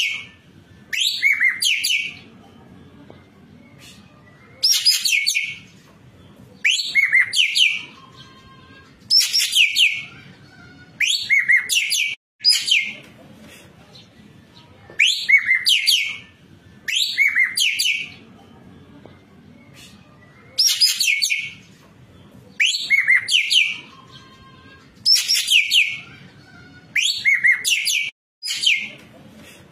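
Racket-tailed treepie (ekek keling) calling: a loud phrase of about a second made of quick falling notes, repeated roughly every two seconds.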